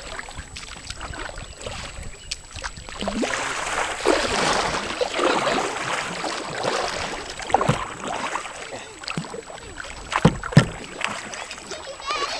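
Water splashing and sloshing around a kayak, swelling for a few seconds in the middle, with a few sharp knocks near the end, like a paddle or hands hitting the hull.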